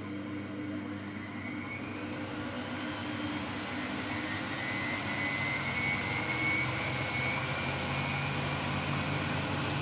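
Miele Novotronic W822 washing machine spinning up in its final spin, the drum motor's whine rising in pitch as it gets steadily louder.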